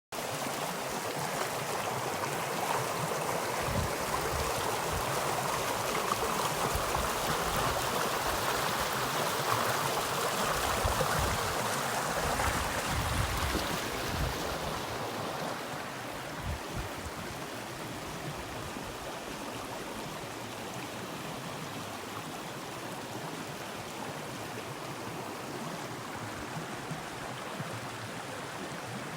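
Clear shallow river flowing and rippling over stones, a steady rushing of water that becomes a little softer about halfway through.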